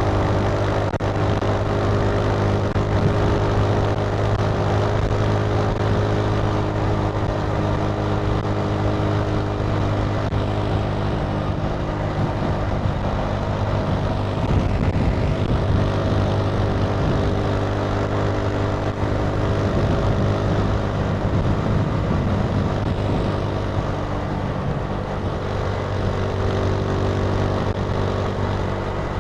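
Italika TC300 motorcycle engine running at a steady, unchanging speed while riding, with road and wind noise beneath it. Its pitch wavers slightly about midway.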